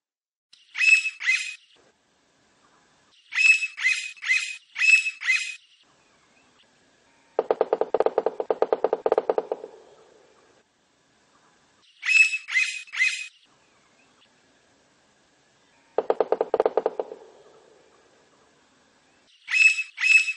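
Blond-crested woodpecker calling in short groups of two to four sharp, high notes, repeated several times. Twice, a fast drumming roll of knocks on wood lasts about two seconds, lower in pitch than the calls.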